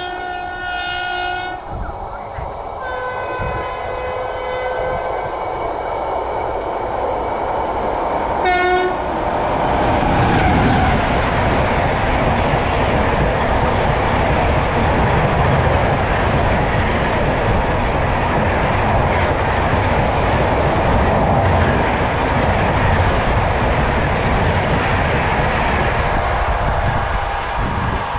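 Jan Shatabdi Express locomotive horn sounding: one long blast, a second at a higher pitch about three seconds in, and a short toot about eight seconds in. After that, the loud, steady running noise of the train builds up from about ten seconds in and stays loud.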